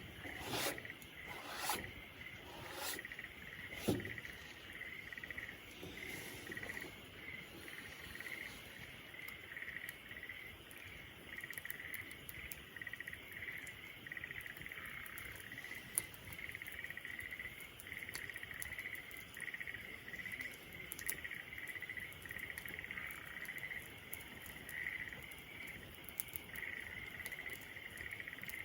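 Campfire crackling and popping in sharp cracks, several close together in the first few seconds and then more sparsely, one loud pop midway. Behind it insects chirp in a steady, pulsing high-pitched chorus.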